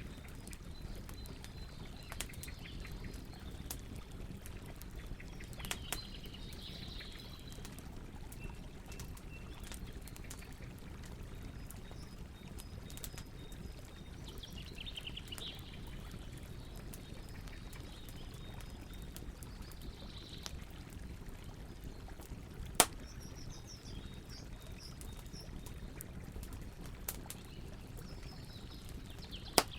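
Campfire crackling with scattered small snaps over a steady low rush, and two sharp loud pops, one about two-thirds of the way through and one near the end. Birds chirp now and then in the background.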